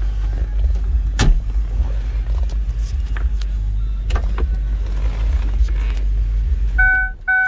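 Ford Thunderbird's V8 idling as a steady low rumble, with a few sharp clicks. Near the end the rumble stops and two short electronic chime beeps sound.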